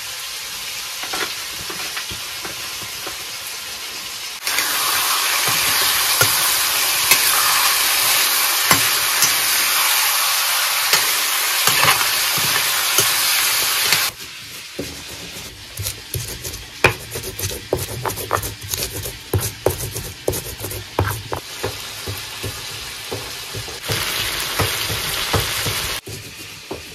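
Food frying in hot oil in a pan, sizzling steadily, while a utensil stirs and scrapes against the pan. The sizzle turns loud a few seconds in and drops back abruptly about halfway. The middle stretch is quieter, full of quick scrapes and taps of the stirring, and the sizzle swells once more near the end.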